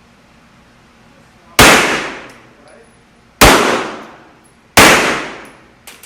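Three gunshots at an indoor shooting range, about one and a half to two seconds apart, each followed by a long reverberating tail, with a faint pop near the end.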